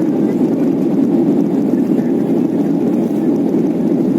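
Steady cabin noise of a Boeing 737 in climb: a constant low rush of jet engines and airflow, heard from inside the cabin.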